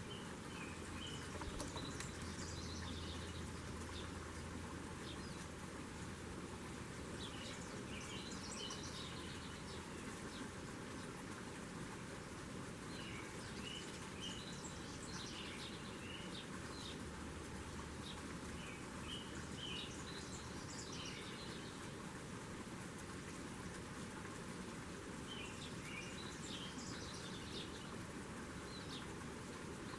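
A songbird singing, one short chirpy phrase every five or six seconds over a steady background hiss.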